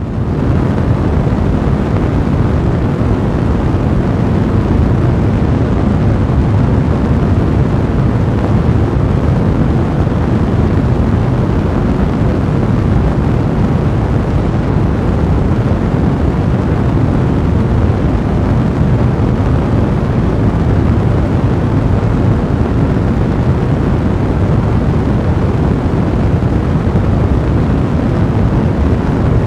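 A blazing fire burning steadily, a loud, dense low rumble with no pauses.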